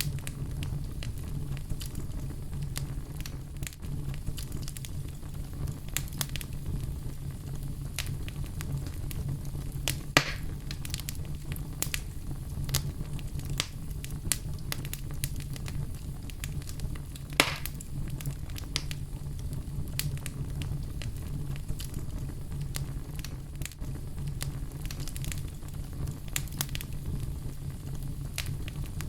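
Wood fire crackling in a fireplace, with a steady low rumble of the flames and frequent irregular snaps and pops. Two louder pops stand out, about ten seconds in and again past the middle.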